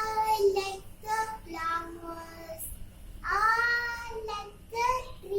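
A child's voice reciting a poem in a sing-song chant, with long drawn-out vowels held on a steady pitch between short phrases.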